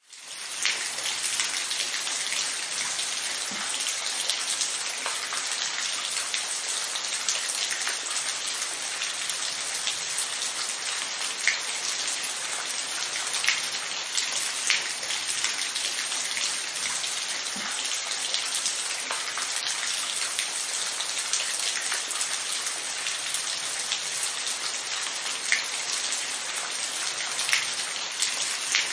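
Steady rain, a dense even hiss of falling drops with occasional louder single drops ticking on a surface. It fades in over the first second.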